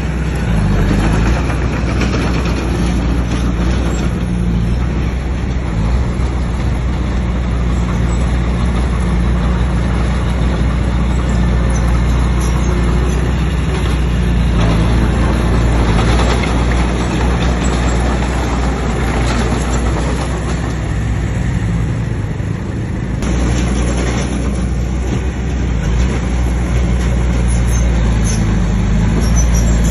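Bulldozer's heavy diesel engine running steadily under load, with the rumble and clatter of the machine working.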